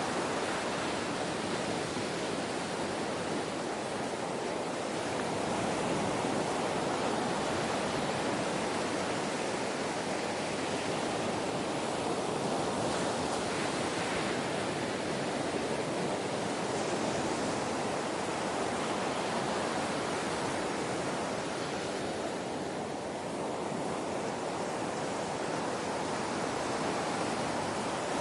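Ocean waves washing on the shore: a continuous rush of surf, swelling and easing only slightly.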